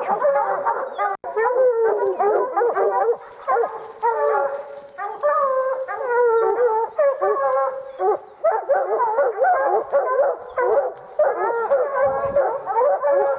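A pack of hounds baying and howling without let-up, many voices overlapping: tree barking at a treed bear.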